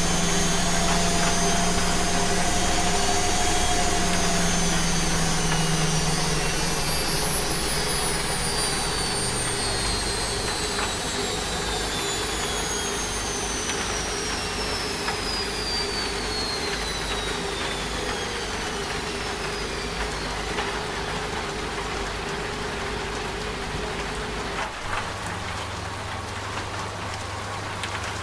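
Washing machine drum winding down from its spin cycle: a high whine falls steadily in pitch over about twenty seconds over a low motor hum, and the whole sound slowly gets quieter. The steady hiss of rain runs underneath.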